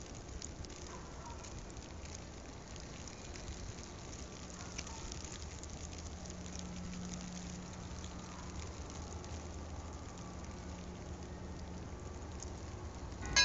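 Wind blowing across the phone's microphone, a steady rushing hiss with faint crackle, and a faint low hum through the middle.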